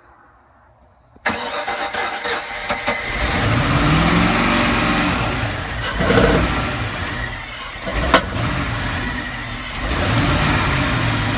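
Boat engine cranked over by its starter about a second in, catching after a couple of seconds and running up and down in speed, with two sharp pops, before settling toward an idle. It is a first start after about three years of sitting, primed with a little fuel poured in.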